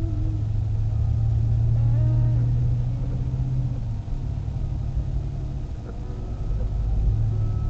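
Car being driven: a steady low engine and road rumble, dipping briefly about four seconds in.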